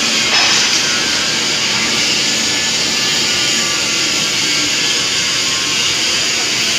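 Industrial stress-relieving furnace firing: a loud, steady rushing noise, with a brief surge about a third of a second in.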